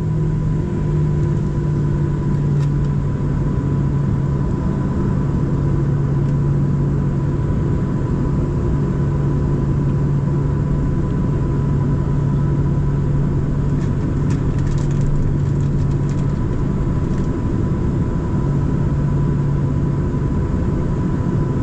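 Steady cabin drone inside a Boeing 737-700 on the ground with its CFM56-7B engines at idle: an even low hum with a thin steady whine above it. A few faint ticks come near the middle.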